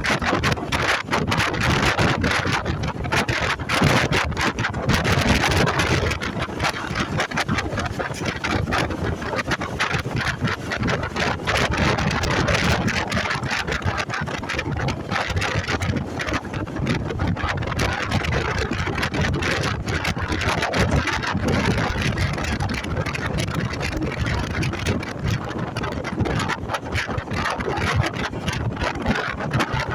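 Motorcycle engine running on the move, with wind rushing and buffeting over the microphone.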